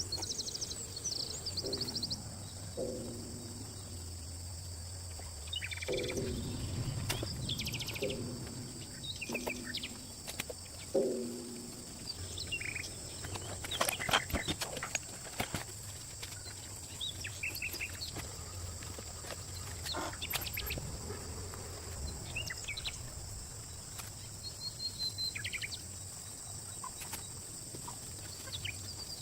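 Outdoor ambience: birds chirping over a steady high-pitched hum, with lower animal calls in the first ten seconds or so.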